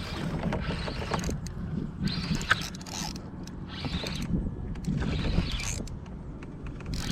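Spinning reel being cranked in bursts while fighting a hooked fish, the reel's gears and line winding in short spells of about a second.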